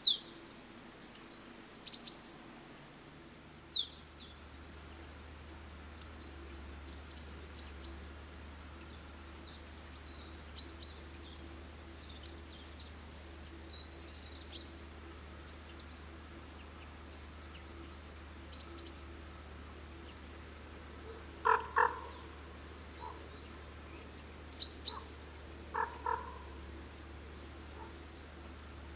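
Wild birds calling: short high chirps scattered throughout, a sharp falling whistle right at the start, and a lower, harsher call heard twice, about 22 s and 26 s in.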